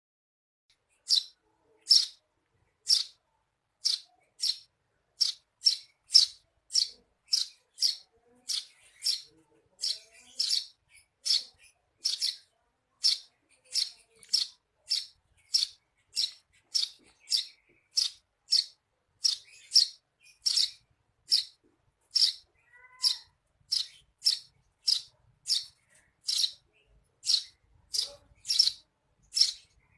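Eurasian tree sparrow chirping: single short, sharp, high chirps repeated steadily at nearly two a second.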